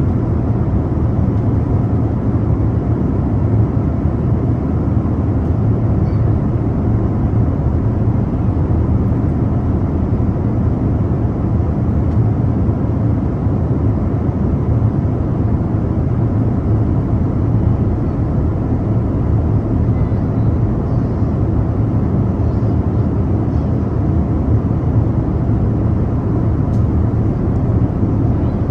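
Steady, unchanging airliner cabin noise in cruise: a low engine and airflow rumble heard from a window seat.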